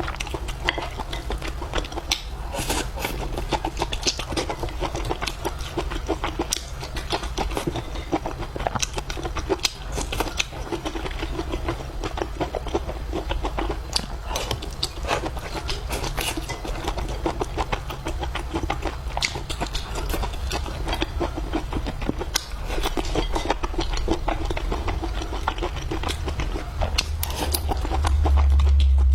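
Close-miked eating sounds from a person eating fried noodles and vegetables with rice: irregular chewing and mouth clicks over a steady low hum.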